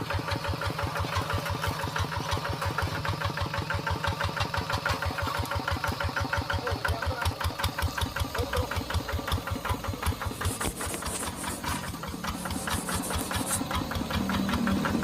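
A tractor engine running with a steady, rapid pulsing beat. Two short bursts of high hiss come about ten and twelve seconds in, and the engine grows louder near the end.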